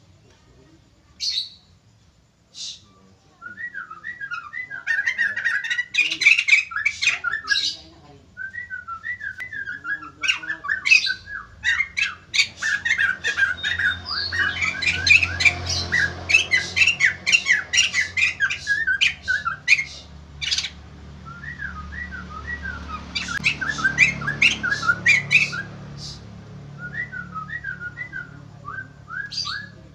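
White-crested laughingthrushes (poksay jambul) calling: a couple of sharp single calls, then from a few seconds in, long rapid runs of short chattering notes with loud, sharp high calls repeated quickly over them, several birds answering one another.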